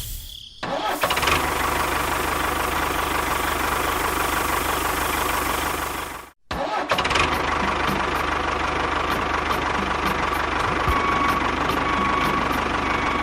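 Small motors of miniature model construction machines running steadily with a noisy whir. The sound cuts out abruptly a little past halfway and then starts again.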